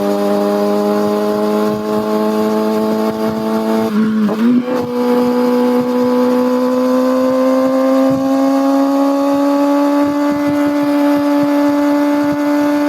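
Kawasaki ZX6R inline-four motorcycle engine and exhaust under way, holding a steady high note that climbs slowly with the revs. About four seconds in the note breaks briefly and jumps up to a higher pitch, as at a gear change.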